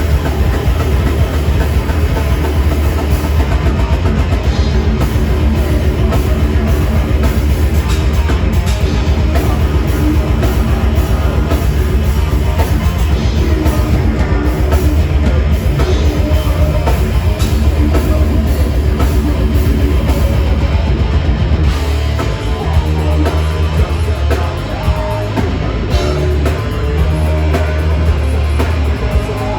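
A rock band playing loud live: electric guitars, bass and drum kit. The low end turns stop-start about three-quarters of the way through.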